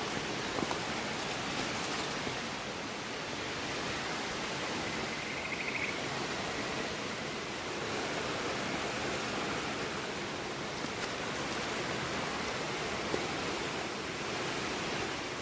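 River water rushing steadily, with a few faint pops from a wood campfire.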